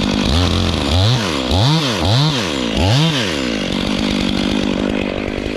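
Two-stroke chainsaw cutting into a dead white oak during felling. Its engine note swings up and down about five times in quick succession, then runs steady.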